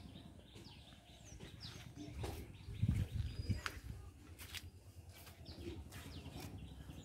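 Small birds chirping in short, quick falling notes, with scattered clicks and a louder low thump about three seconds in.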